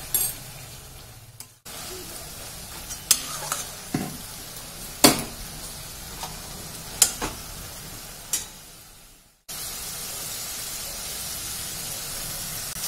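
Doi mushroom curry sizzling in a metal wok while a metal spatula stirs it and knocks against the pan several times. After about nine seconds there is only steady sizzling as the gravy fries down until the oil separates.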